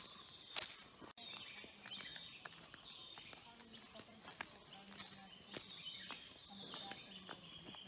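Small birds chirping, with many short, quick calls. There are a few sharp clicks about half a second in.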